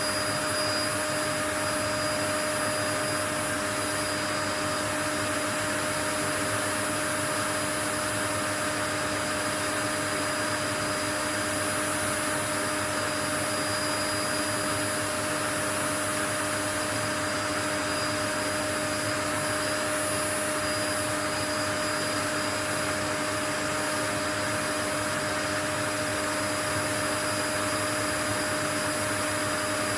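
Steady, unchanging white noise with a few faint constant tones running through it.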